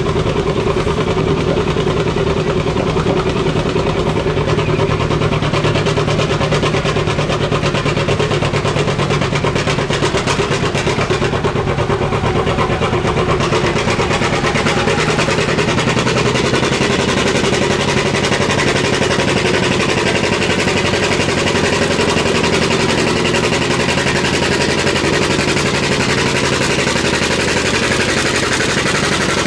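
Pulling vehicle's engine running loud and steady for the whole stretch, with no clear rise or fall in pitch.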